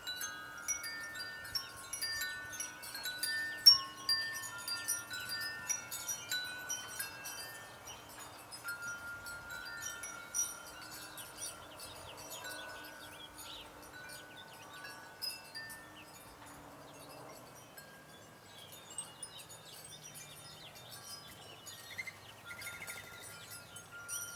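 Wind chimes ringing, with notes at several fixed pitches overlapping, busier in the first half and sparser later. Scattered short high ticks sound throughout.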